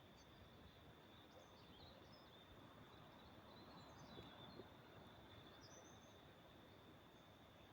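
Faint distant birds chirping at dusk: scattered short high chirps and slurred notes over a steady high-pitched whine, all very quiet.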